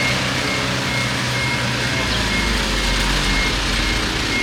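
Bulldozer's diesel engine running steadily, with a back-up alarm beeping evenly about twice a second; the engine note drops deeper about two seconds in.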